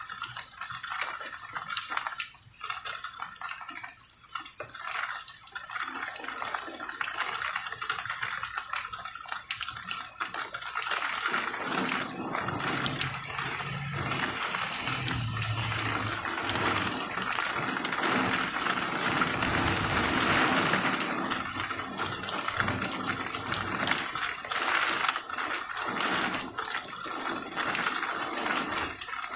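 Rain falling steadily with many small drop impacts, growing heavier about a third of the way in. A low rumble sits under it through the middle.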